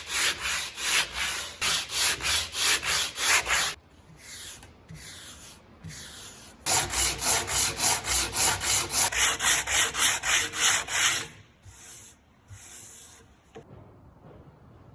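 Wood being sanded by hand with rapid back-and-forth strokes, about three to four a second. The strokes go fainter for a few seconds, come back loud, then fade out near the end.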